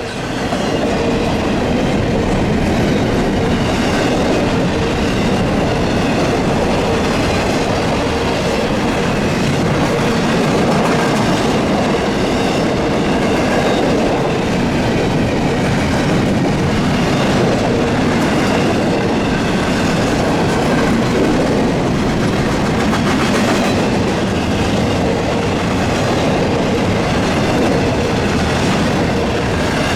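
Long CSX intermodal freight train rolling past at close range: the steady rumble and clatter of its railcar wheels over the track, unbroken throughout.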